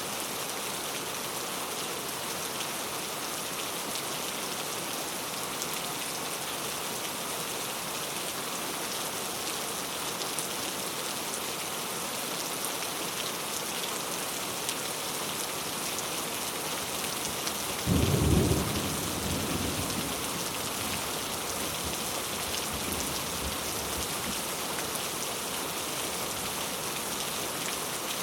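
Heavy rain pattering steadily on mango leaves. About two-thirds of the way through, a sudden low rumble breaks in and dies away within about two seconds.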